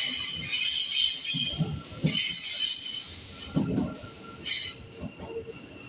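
Thameslink Class 700 electric train pulling into the platform, squealing high-pitched as it slows. Two long squeals fill the first three and a half seconds, and a short one follows about four and a half seconds in.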